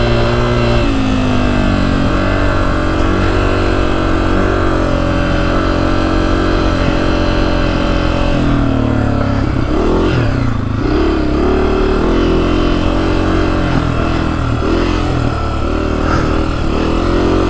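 Honda CRF250F dirt bike's single-cylinder four-stroke engine running under throttle while riding. Its pitch holds fairly steady, drops sharply as the throttle is shut off about ten seconds in and climbs again, then rises and falls repeatedly near the end.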